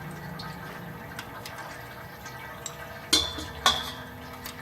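Engine oil running steadily from the drain hole into a drain pan. A little after three seconds in, two sharp metal clinks ring out as tools knock together.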